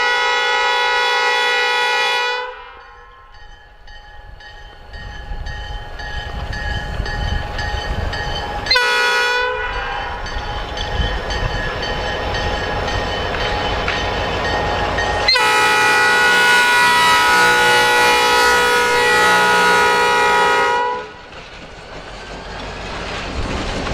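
EMD SD40-2 diesel locomotive sounding its air horn for a crossing: a long blast that cuts off about two seconds in, a short blast about a third of the way through, then another long blast that stops a few seconds before the end. Between the blasts the locomotive's engine and wheels rumble, growing louder as it comes by.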